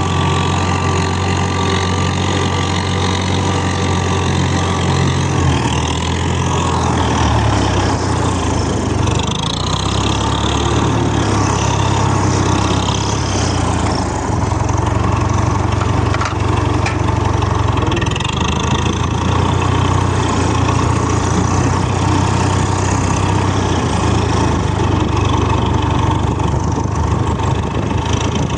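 Tractor engine running steadily at a low idle, its note shifting slightly about five seconds in.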